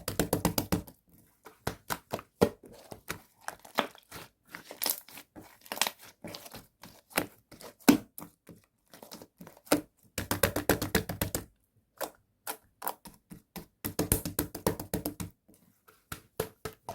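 Cookies-and-cream slime being played with by hand: sharp clicks and pops of trapped air, in dense crackling runs at the start, about ten seconds in and around fourteen seconds, with scattered single pops between.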